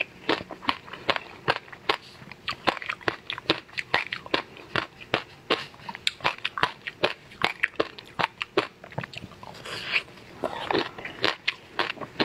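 Close-miked chewing and crunching of a frozen ice-pop treat, with many sharp, irregular crunches several times a second.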